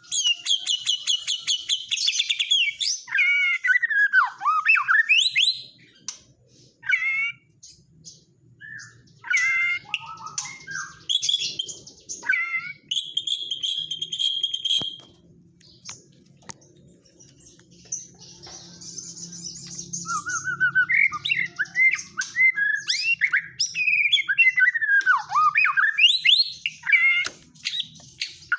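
White-rumped shama (murai batu) singing a varied song of rapid trills, sweeping whistles and one long held note about halfway through, with short pauses between phrases; the song is filled with mimicked kapas tembak calls.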